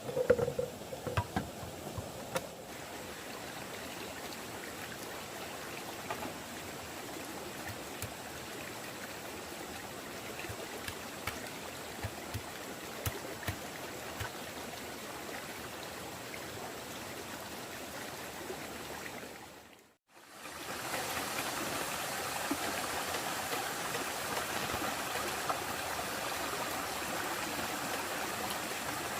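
Steady rushing of running water, with a few sharp knocks in the first two seconds. About two-thirds through it dips briefly to silence, then comes back a little louder.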